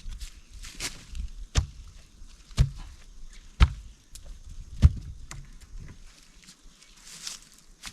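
Wood being chopped: sharp strikes about once a second for some five seconds, then fainter knocks and rustling.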